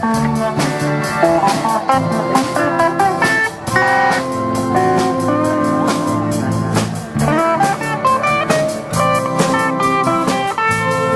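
Live band playing an instrumental passage: guitar lines over a steady drum kit beat.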